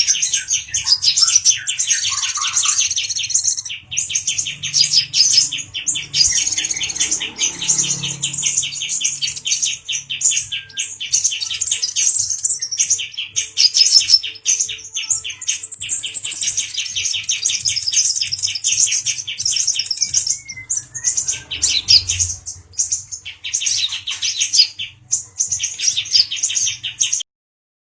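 Male brown-throated sunbird (kolibri ninja) singing: long runs of fast, high chirping trills, broken by a few short pauses, stopping suddenly just before the end.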